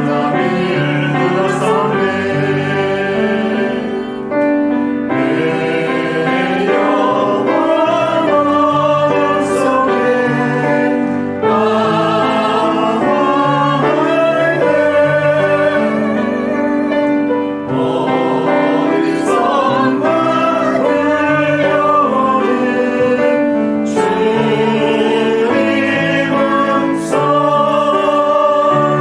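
A church praise team singing a worship song in several voices, with piano accompaniment; the phrases break off briefly every few seconds.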